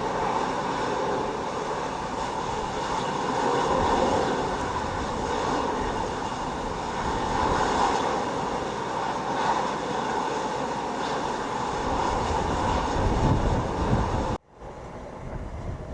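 Jet airliner engines running with a steady rushing whine, while strong wind gusts buffet the microphone. The engine sound cuts off suddenly about a second before the end, leaving quieter wind noise.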